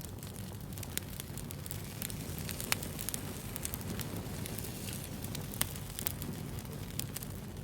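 Wood fire burning: a steady low rumble with scattered sharp crackles and pops, the loudest about three seconds in and again a little before six seconds.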